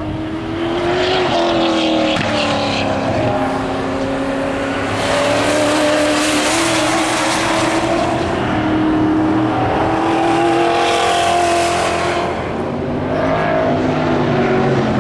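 Several muscle-car race engines running hard together, their notes rising and falling as they accelerate and pass, with two louder swells as cars go by close.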